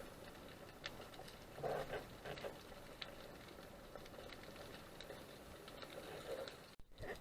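Faint underwater ambience: scattered small clicks and crackles, with a brief soft burst of sound a couple of seconds in.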